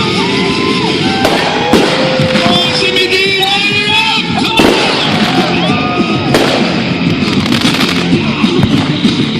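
Aerial fireworks going off in a steady barrage: sharp bangs about a second and a half in, near the middle and several more later, over dense crackling and a few gliding whistle-like tones, with music playing.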